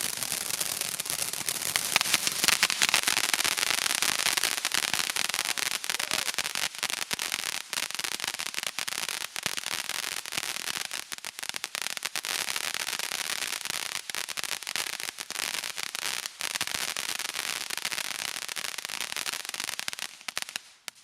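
Firework crackle effect: a dense, unbroken stream of tiny rapid pops that keeps going, is loudest a few seconds in, and cuts off abruptly near the end.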